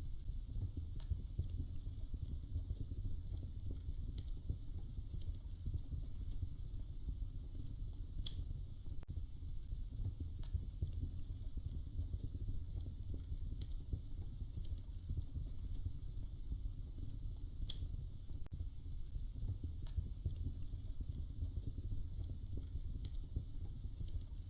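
Wood fire crackling in a fireplace: a steady low rumble of burning with scattered sharp pops and crackles every second or two.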